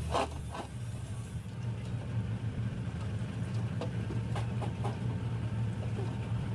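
A steady low mechanical hum, like an engine running, with a few light metallic clicks and clinks scattered through it.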